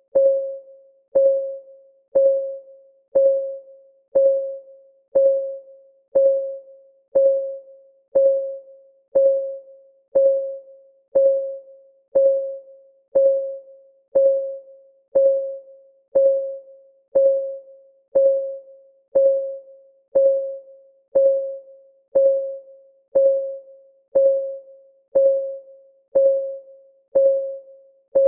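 Timer's clock-ticking sound: a short, pitched tick once a second, each dying away quickly, in a steady, even rhythm.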